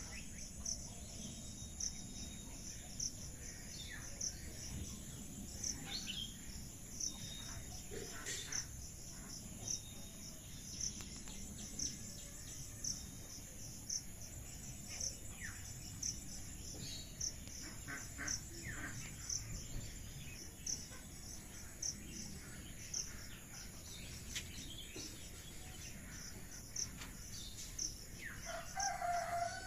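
Insects chirping in a steady, evenly spaced high-pitched rhythm, with scattered small bird chirps. Near the end a rooster starts to crow, with a louder call that falls away at its close.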